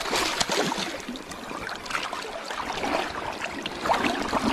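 Creek water splashing and sloshing in irregular splashes over a steady rush of flowing water.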